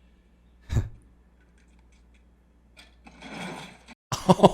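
A single sharp thump just under a second in, then near the end a fast mechanical rattle of about seven strokes a second over a low hum.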